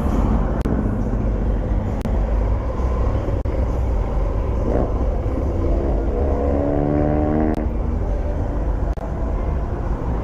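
Car show surroundings: a steady low rumble, with a pitched sound rising slightly for about a second and a half around six seconds in, and a few sharp clicks.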